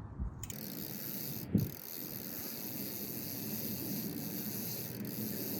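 Bicycle rear freehub ratcheting in a steady buzz as the cranks are turned backward during drivetrain cleaning, with a single knock about a second and a half in.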